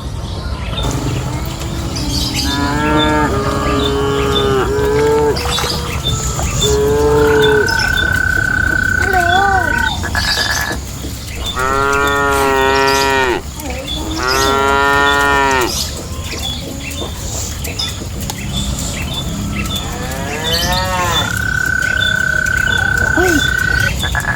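Cattle mooing: about six separate moos from the herd, some long and wavering in pitch. A steady high tone is held for a couple of seconds twice.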